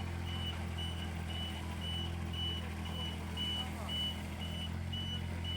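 Vehicle reversing alarm beeping steadily about twice a second over a running engine's steady low hum.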